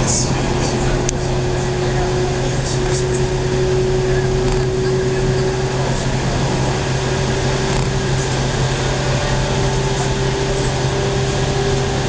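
Local electric train running steadily, heard from inside the passenger car: a continuous rolling rumble and low hum with a faint steady motor whine and a few light clicks.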